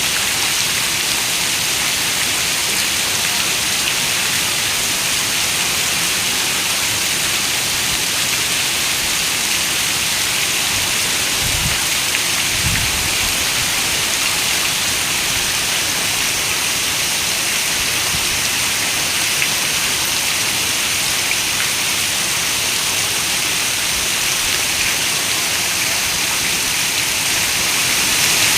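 Steady heavy rain falling on a window, an even hiss throughout. A brief low rumble comes about twelve seconds in.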